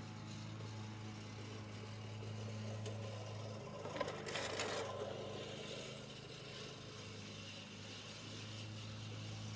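A vehicle engine running steadily at a constant low hum, with a brief rush of noise swelling and fading about four seconds in.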